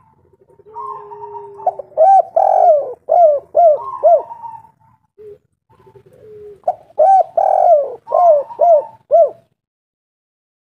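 Spotted dove cooing: two calls, each a long low coo followed by a quick run of short, hoarse coos. The second call starts about six and a half seconds in, and after it the sound stops abruptly.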